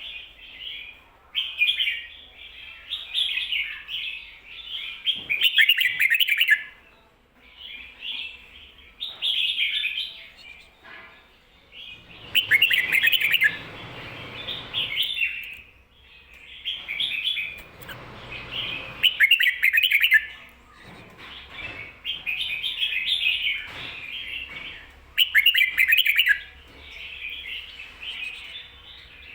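Red-whiskered bulbul singing its 'ko-ta-ra' song with doubled phrases: bright, chirpy phrases of one to two seconds repeated over and over with short pauses between.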